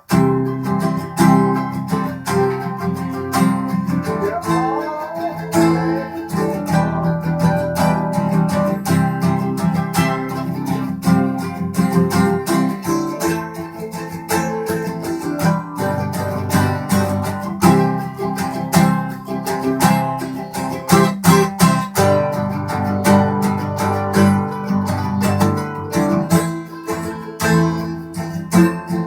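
Guitar strumming chords steadily through an instrumental passage of a live song, with no singing.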